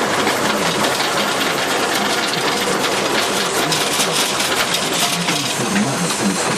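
Massey Ferguson 275 tractor's diesel engine running steadily with a rapid clatter.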